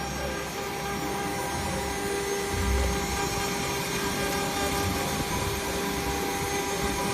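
CNC engraving machine running, its spindle giving a steady whine over a continuous rushing noise.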